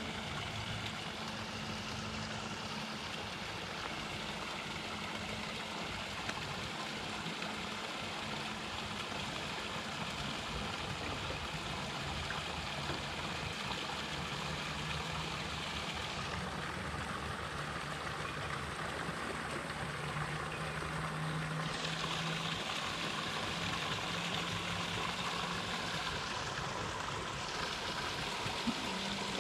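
Steady rush of running water, with a faint low hum underneath whose pitch shifts now and then.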